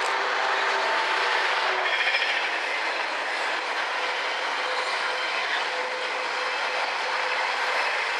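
Freightliner Class 66 diesel locomotive passing with an intermodal container train: its engine note is heard for the first couple of seconds and fades, leaving the steady rumble and clickety-clack of the loaded container wagons' wheels on the rails.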